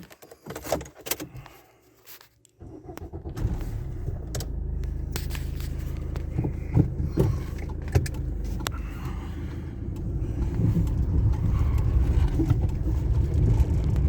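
Clicks and knocks of handling in the vehicle, then about two and a half seconds in a vehicle engine starts and keeps running steadily, getting a little louder near the end.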